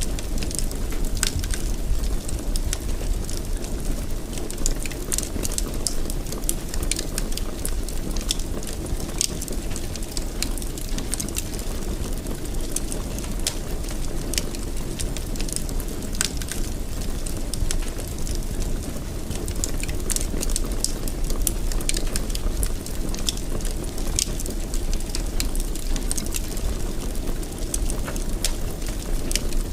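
Wood fire burning in a fireplace, with a steady low rumble of flames and frequent sharp crackles and pops.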